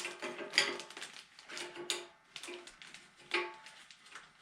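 Metal tools and hydraulic fittings clinking as the backhoe's control-valve lines are disconnected: a few sharp clinks, some followed by a short ringing tone.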